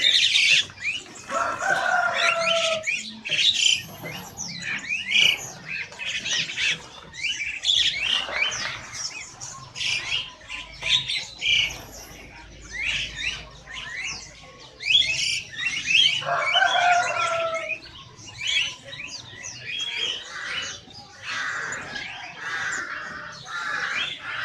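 Many caged birds calling at once: a dense, continuous mix of short high chirps and squawks, with a longer, lower call standing out twice, near the start and about two-thirds of the way through.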